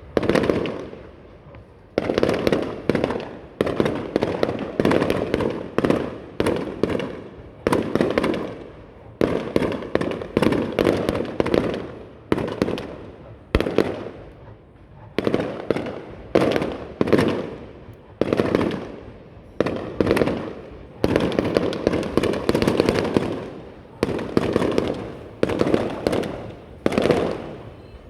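Fireworks display: aerial shells bursting one after another, one or two a second, each a sharp bang followed by a rumbling tail that dies away.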